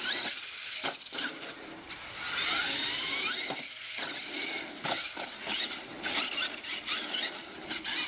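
Radio-controlled monster truck's motor and drivetrain whining, rising and falling in pitch as the throttle is worked, with tyres scrabbling on dirt. Several sharp knocks come through, loudest about a second in and near five seconds.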